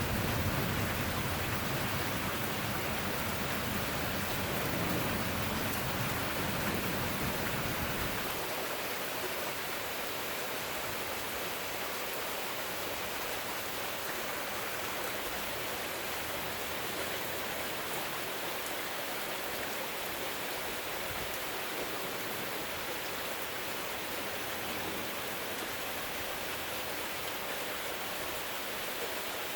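Steady rain during a thunderstorm, an even hiss. A low rumble of thunder dies away about eight seconds in.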